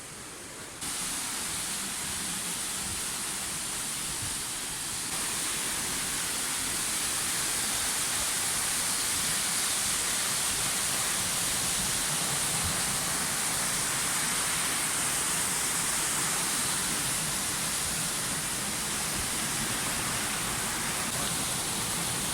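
Steady rush of river water, an even hiss without breaks; it steps up in loudness about a second in and again around five seconds.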